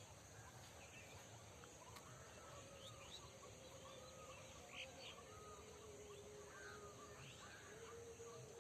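Faint outdoor ambience with small birds chirping repeatedly, short high calls over a quiet background hiss and a faint steady hum.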